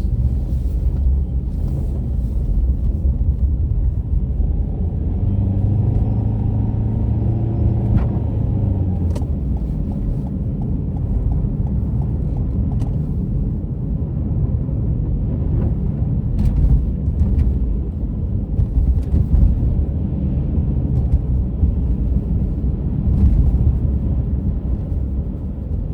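Steady low rumble of a car driving, heard from inside the cabin. The engine tone stands out more clearly for a few seconds about five seconds in, and a few light clicks are heard.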